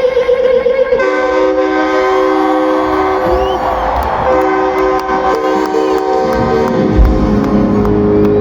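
A live band opening a song with sustained, held chords that shift every second or so, with light cymbal ticks; heavy bass and drums come in about seven seconds in.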